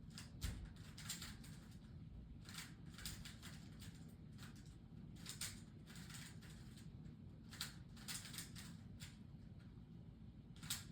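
Pet budgerigars making faint, scattered short chirps and clicks at irregular intervals over a low room hum.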